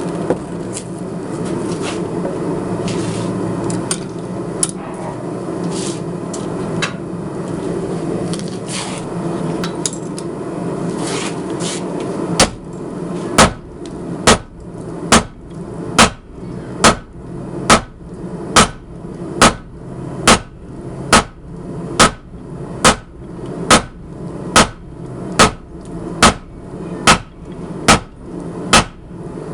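Hammer blows on hot steel on an anvil, forging a ball bearing into a knife blade. For the first twelve seconds or so there is only a steady rushing noise with a few scattered knocks; then the blows come evenly, a little more than one a second, each with a sharp metallic ring.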